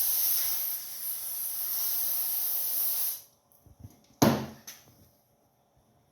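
Aerosol spray hissing steadily for about three seconds as cleaner is sprayed into a small-engine carburetor's float bowl, then a sharp knock about a second later.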